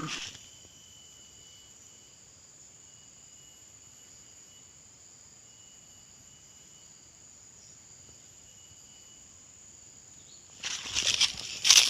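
Faint, steady insect trilling, a constant high note with a second note coming and going. Near the end, a sudden run of loud crackling rustles begins.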